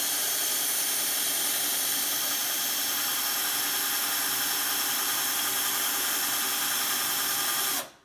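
Electric drill running steadily as it bores a small hole in a bicycle seat post, then stopping shortly before the end.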